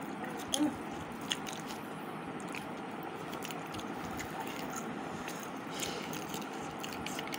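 Someone eating close to the microphone: chewing with small mouth clicks and a couple of soft knocks, over a steady background hiss.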